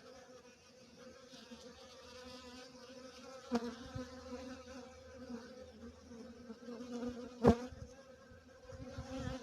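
Honeybees buzzing around the hive, a steady, slightly wavering hum. Two sharp taps come through, one about three and a half seconds in and a louder one near the end.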